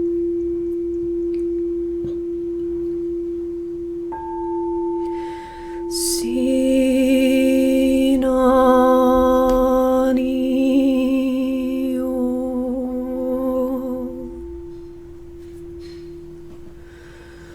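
A singing bowl rings with one steady, sustained tone. About six seconds in, a voice joins with a long, wavering sung tone that lasts about eight seconds and then fades, leaving the bowl's tone alone.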